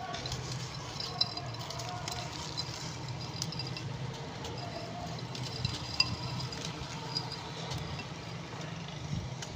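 A pressed block of crushed red-brick dust being crumbled by hand, with soft crackling and a few sharp little cracks, over a steady low hum.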